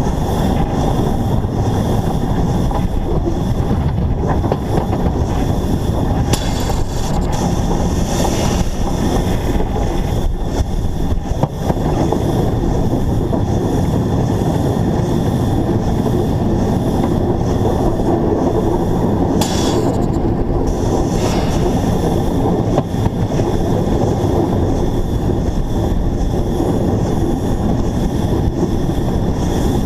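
Narrow-gauge steam locomotive running along the line, heard close up from a camera mounted on the locomotive: a steady, loud rumble of the moving train, with a few brief higher-pitched bursts, the sharpest about twenty seconds in.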